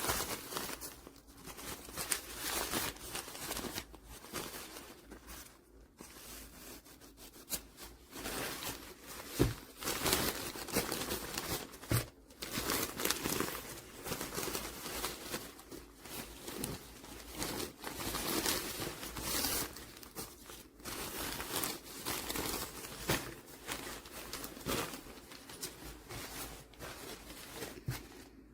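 Irregular rustling and crinkling, as of material being handled, with scattered light knocks; the sharpest knocks come about nine and a half and twelve seconds in.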